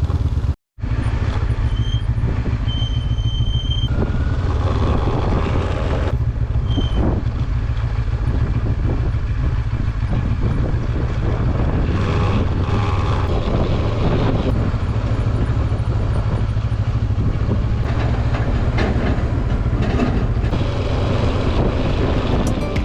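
Benelli 702 motorcycle on the move, its parallel-twin engine running steadily under a deep, even rumble of engine, tyre and wind noise. The sound cuts out completely for a moment just under a second in.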